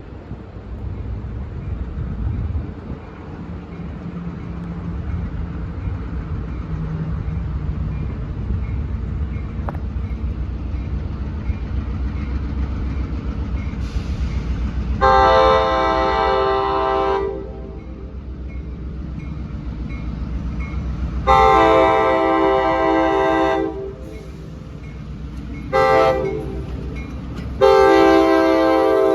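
Diesel locomotive rumbling as it approaches, then its multi-chime air horn sounding long, long, short, long: the standard signal for a grade crossing. The last long blast is still going at the end.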